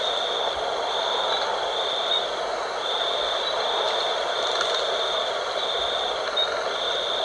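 Night wind blowing steadily, with a high insect trill under it that repeats in pulses of just under a second.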